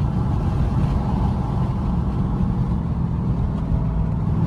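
Dodge Charger R/T's V8 engine and road noise, heard from inside the car as it cruises steadily with a low, even rumble.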